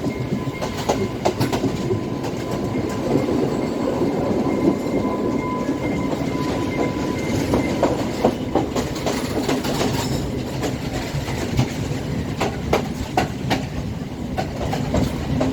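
Passenger train running on the track: a steady rumble of wheels with irregular clattering clacks over rail joints and points, and a faint thin steady tone through the first half.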